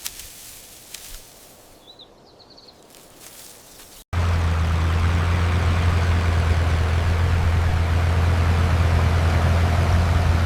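Quiet outdoor ambience with a few faint clicks and a brief high chirp. It is cut off abruptly about four seconds in by a loud, steady, low engine-like rumble, as of a motor idling.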